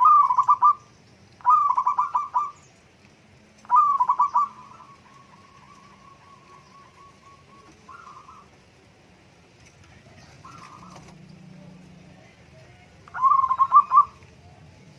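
Zebra dove (perkutut) cooing: loud phrases of rapid stuttering notes, each about a second long, three in quick succession and a fourth near the end, with fainter calls between.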